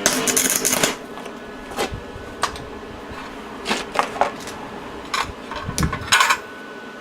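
Electric welding on an e-bike hub motor clutch, welding it to the motor shaft: one burst of about a second at the start, then a string of short, separate bursts.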